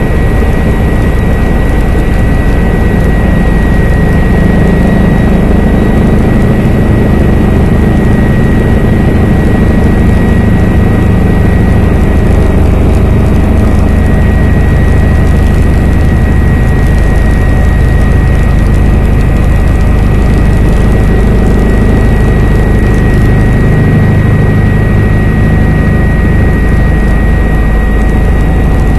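Helicopter in flight heard from on board: a loud, steady engine and rotor noise with a constant high-pitched whine over a deep rumble.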